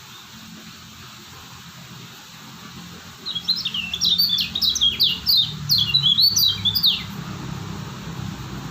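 Kecial kuning, a yellow white-eye, singing: about three seconds in it breaks into a quick run of short, high, falling whistled notes that lasts about four seconds, then stops.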